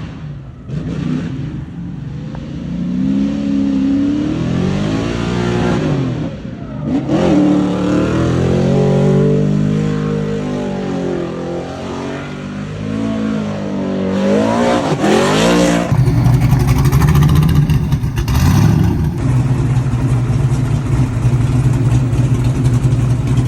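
Drift car engines revving up and down again and again. About two-thirds of the way in, a louder engine takes over, held at a steady speed.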